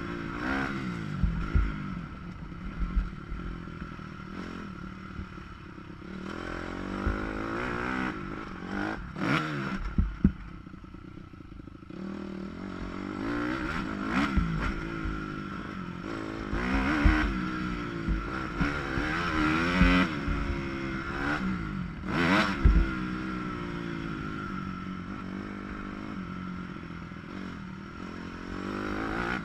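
Motocross dirt bike engine revving up and down through the gears, easing off about a third of the way in before climbing again, with clattering knocks from the bike over bumps. The sound is muffled by a GoPro waterproof housing.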